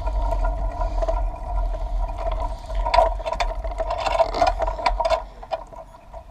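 Bicycle rolling over a bumpy path, with short rattling clicks from the bumps over a constant low wind-and-road rumble and a steady whine.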